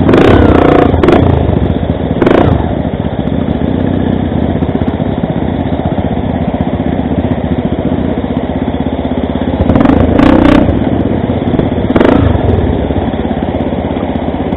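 Motorcycle engine running steadily while riding, with a few brief louder surges: near the start, at about 2 seconds, and twice near the end.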